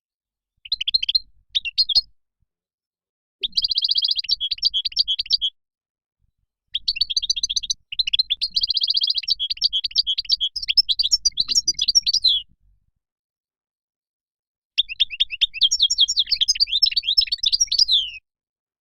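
European goldfinch singing: four phrases of rapid twittering and trills, separated by complete silences of one to two seconds.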